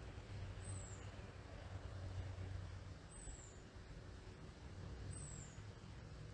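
Faint, steady low rumble of a distant aircraft passing overhead, with a small bird giving a thin, very high call that slides downward, three times about two seconds apart.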